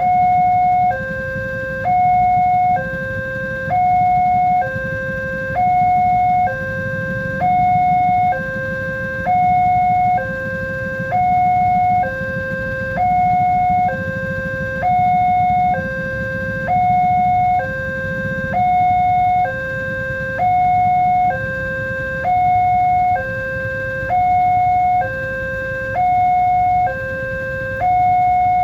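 Level crossing's electronic warning alarm sounding, alternating between a higher and a lower tone about once a second, over a low rumble.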